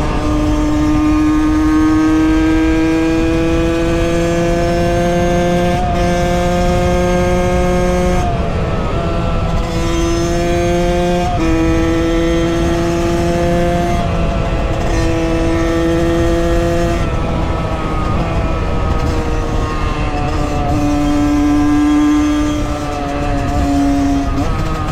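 Liquid-cooled 50cc two-stroke motard engine pulling under load while riding. Its buzzing note rises slowly for the first eight seconds, then dips and picks up again several times as the throttle is eased and reopened.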